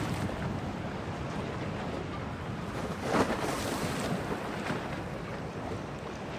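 Storm wind in a harbour, with waves washing and slapping against the quay and gusts buffeting the microphone. One louder surge comes about halfway through.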